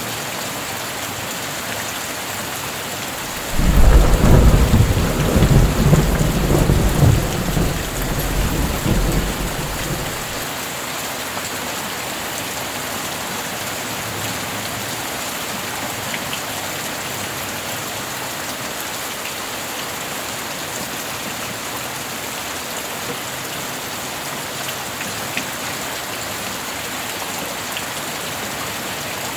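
Steady rain with a thunder peal about three and a half seconds in: a loud low rumble that rolls on in waves for about six seconds before fading back under the rain.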